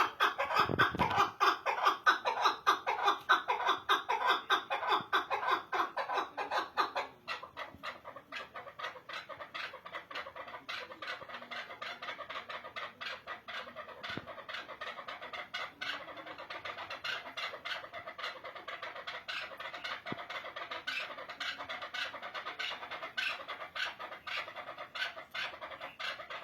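Partridge (keklik) calling in a fast, steady run of short repeated notes, several a second. The run is louder at first and drops abruptly to a quieter level about seven seconds in.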